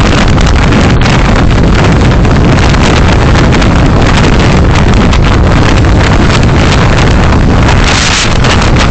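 Loud wind buffeting and crackling on a dash-cam microphone over the noise of a vehicle driving along the road, with a brief surge of hiss near the end.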